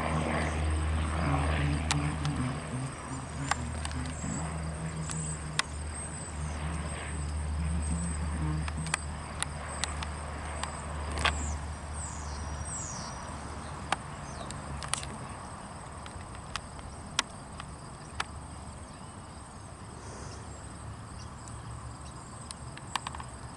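Insects chirring in a steady high tone over a low engine drone that fades out about halfway through. Scattered sharp ticks and a couple of short chirps sound over it.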